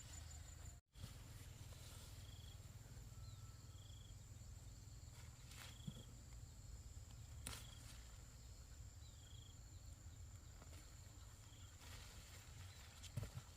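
Near silence: faint countryside ambience with a steady high insect drone and short chirps repeating every second or two, plus a few soft clicks. The sound cuts out completely for a moment about a second in.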